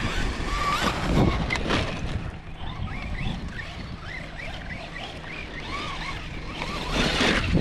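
Radio-controlled trucks' electric motors whining up and down in pitch in short repeated bursts as they are throttled on and off, with a few sharp knocks mixed in.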